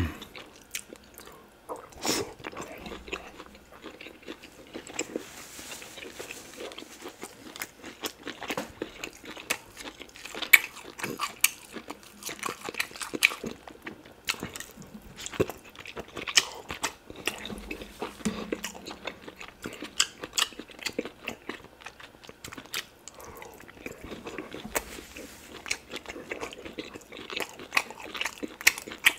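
Close-miked eating of oxtail pepper soup: a person chewing and biting into oxtail meat. Short, irregular clicks and smacks come one after another.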